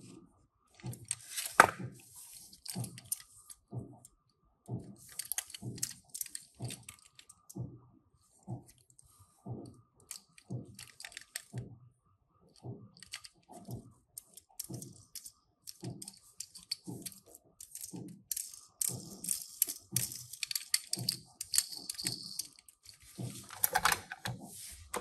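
Paper and plastic packaging being handled and opened: bursts of rustling, crinkling and small clicks over soft, regular low thuds.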